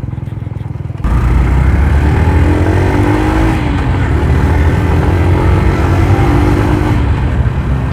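Yamaha YTX125's single-cylinder four-stroke engine running under way. About a second in, loud wind and road noise come in suddenly, and the engine pitch rises and falls with the throttle.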